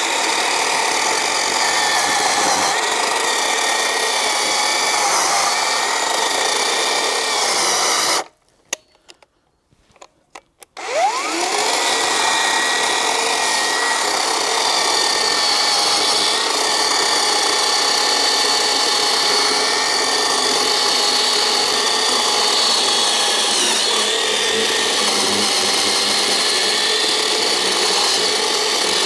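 Black & Decker 36 V cordless electric chainsaw running with a steady whine as it cuts through wood. About eight seconds in the motor stops for a couple of seconds, with a few small clicks. It then spins back up, rising in pitch, and carries on cutting.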